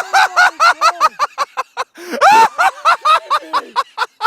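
Two or more people laughing loudly and hysterically, with rapid high-pitched bursts of laughter.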